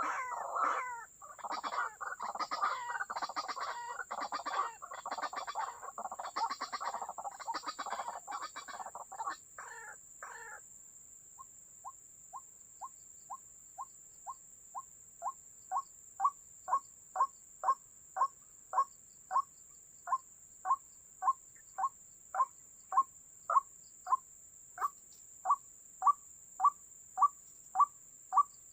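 White-breasted waterhen (ruak-ruak) calling: a dense, harsh chorus of calls for about ten seconds, then a steady run of short repeated notes, about two a second, that grow louder. A faint steady high-pitched whine runs underneath.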